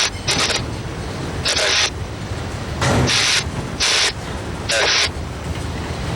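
Scanner radio tuned to railroad traffic, giving short, abrupt bursts of static between transmissions: five of them, roughly a second apart, over a low steady rumble.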